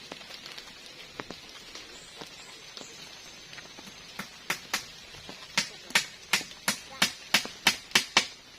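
Steady rain hissing, with a run of about a dozen sharp knocks in the second half, coming faster to about three a second and stopping near the end.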